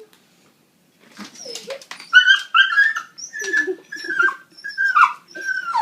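Dog whining in a run of high-pitched cries, about two a second, starting about a second in, the later ones falling in pitch. The dog is frightened of the lead being put on it.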